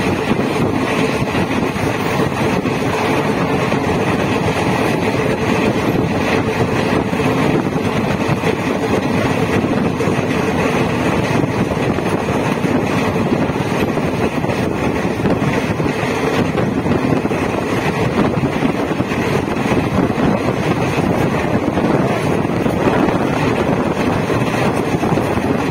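DEMU (diesel-electric multiple unit) passenger train running, heard from on board: a steady rumble and rush of running noise, with a faint steady hum through the first half.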